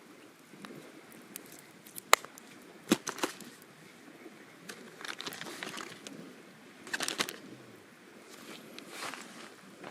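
Scattered sharp clicks and knocks, the loudest about two seconds in, with clusters near three and seven seconds in and crinkling, rustling handling noise between them.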